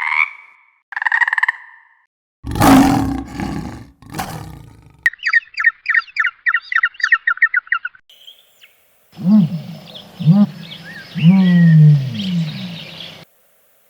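A run of different animal calls cut one after another: two short tonal calls, a loud roar about two and a half seconds in, a fast string of bird chirps, then several rising-and-falling calls near the end.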